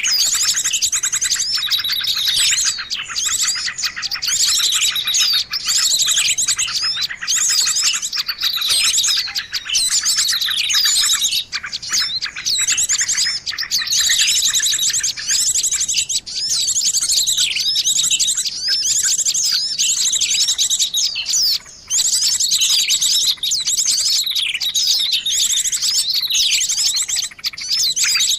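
A dense, noisy chorus of many birds chirping and trilling at once, layered as a bird-lure call track. It is a tangle of high chirps, rapid trills and quick sweeping notes, with fewer of the lower notes from a little past the middle.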